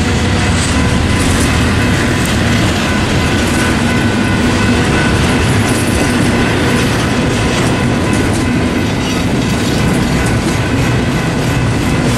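Double-stack intermodal freight train's well cars rolling steadily through a grade crossing: a continuous rumble with wheels clattering over the rail joints and crossing.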